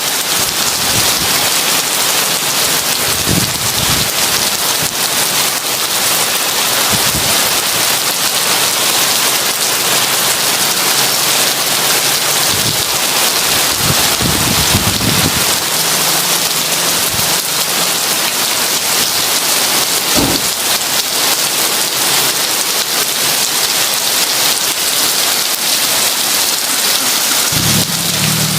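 Heavy rain falling steadily in a dense hiss, with a few brief low rumbles of thunder; a deeper, steadier low rumble sets in near the end.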